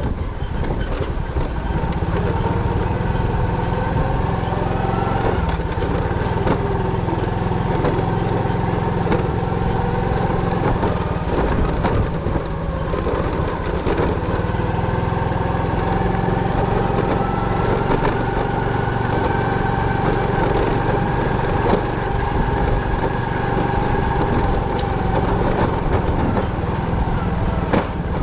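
Motorcycle engine running steadily, with faint wavering whining tones above the engine note.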